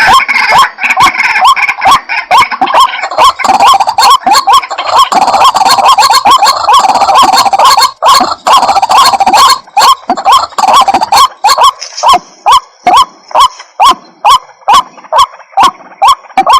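White-breasted waterhen calling: a loud run of short, repeated notes, crowded and overlapping in the first half, then spaced at about two a second.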